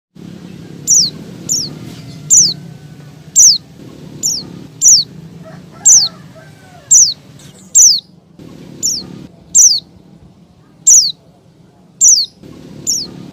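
Female white-eye (pleci) calling to males: short, high notes that fall in pitch, about one a second, over a low steady background hum.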